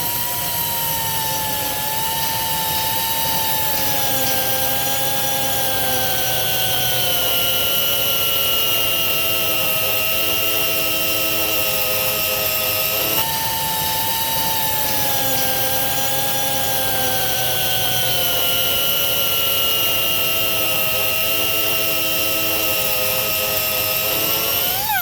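Angle grinder running with a steady whine whose pitch sinks slowly as the disc is pressed into a weld and the motor slows under the load. About halfway through the pitch jumps back up and sinks again.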